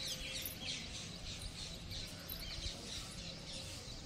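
Birds chirping: many quick, overlapping high chirps.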